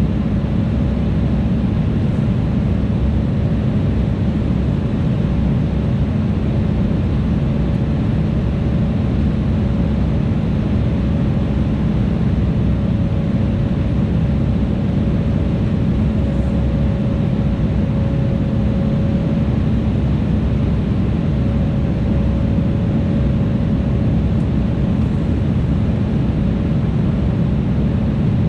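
Steady cabin noise of an Embraer E175 in flight, the rush of air and the drone of its two GE CF34 turbofans heard from inside the cabin, with a faint steady hum-tone running through it.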